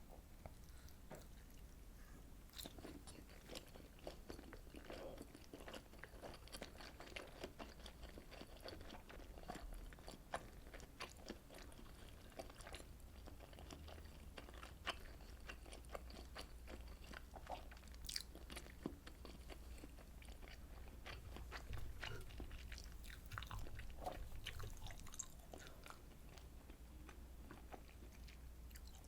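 A person chewing and biting fish cakes and rice cakes from Korean fish cake soup, with many small irregular wet clicks and mouth sounds throughout.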